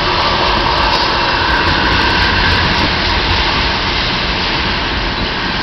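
Ethanol train's tank cars rolling through a grade crossing: a steady rumble and rush of steel wheels on rail.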